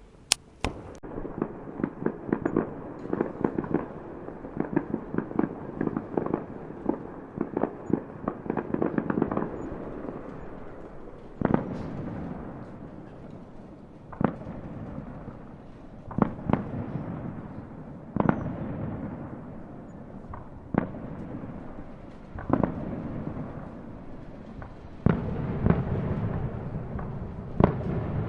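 Fireworks: a dense run of rapid crackling pops for about the first ten seconds, then single loud bangs about every two seconds, each followed by a lingering rumble.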